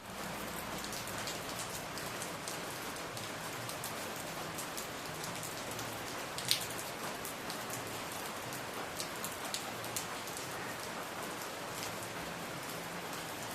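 Steady rainfall, with individual drops ticking sharply close by; one drop stands out loudest about six and a half seconds in.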